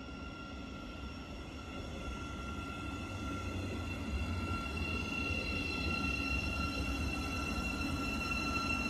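Thameslink Class 700 electric multiple unit running slowly into the platform, a low rumble with a steady high-pitched whine over it, growing louder as it approaches.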